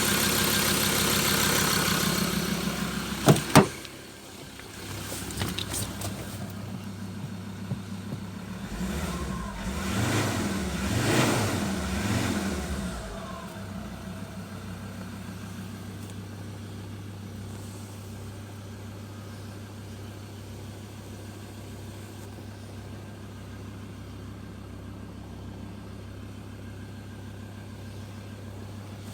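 Mazda BT-50's 3.2-litre five-cylinder turbo-diesel running. It is loud at first, two sharp clicks come about three seconds in, and after them it runs quieter. It is revved up and down a few times around ten seconds in, then settles to a steady idle.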